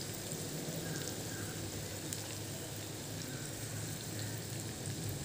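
Squid, onions and masala sizzling steadily in a frying pan, a low even hiss with a few faint crackles.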